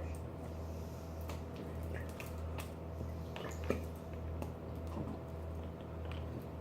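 Glue being poured from a bottle into a bowl: faint soft drips and squishes with a few light clicks from the bottle, over a steady low hum.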